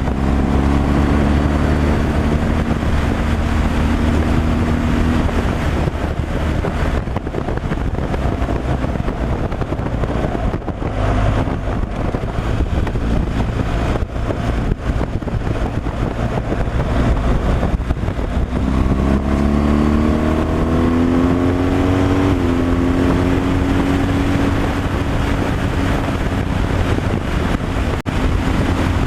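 Truck engine running on the road, with road and wind noise. Its pitch climbs from about two-thirds of the way through as it accelerates, then settles at a higher steady note.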